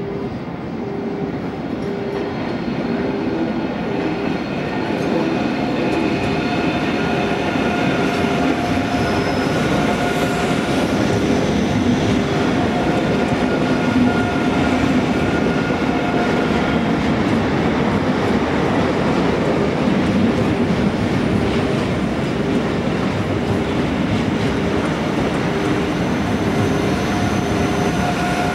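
ICE 3 high-speed electric trainset running slowly into the station over the points, wheels clattering over the crossings with a steady whine. It grows louder over the first few seconds as the train nears, then holds steady as the cars pass close by.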